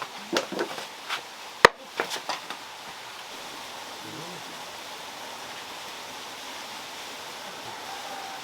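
A quick run of sharp knocks and clicks, the sharpest about a second and a half in, then steady running water from a small built waterfall.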